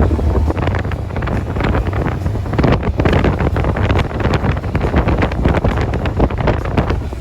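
Heavy wind buffeting on the microphone of a moving motorbike, over a low steady rumble from the bike.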